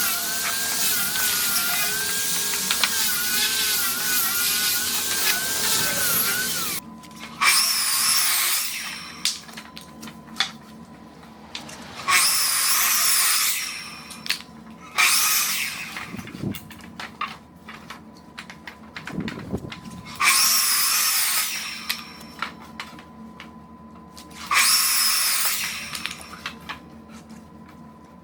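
Angle grinder with a sanding disc sanding larch firewood logs: one long pass of about seven seconds with a wavering whine, then five short bursts of about two seconds each with quiet gaps between.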